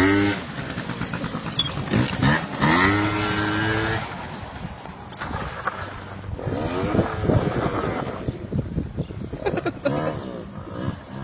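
Motorcycle engine revving in repeated bursts, its pitch climbing and dropping back, with one rev held high for about a second a few seconds in.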